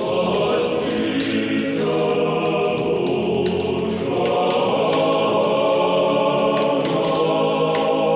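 Choir singing slow, sustained chords, as closing music.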